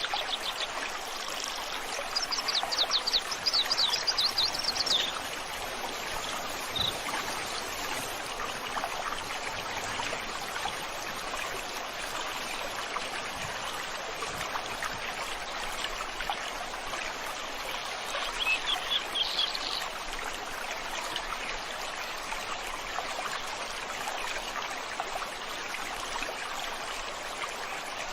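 Stream water running steadily, with a bird singing a rapid series of high chirps in the first few seconds and again briefly about two-thirds through.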